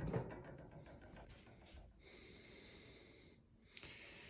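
Quiet handling rustle that fades out within the first second, then a faint breath-like hiss, and a short faint one near the end.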